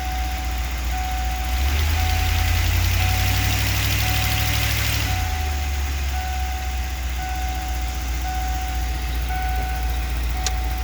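Ford 351 (5.8-litre) V8 of a 1994 E350 van idling in drive against the brake. About two seconds in, the throttle is opened and the engine speed rises for roughly three seconds before settling back to idle. The engine has a misfire that shows as hesitation and hiccups when gas is applied.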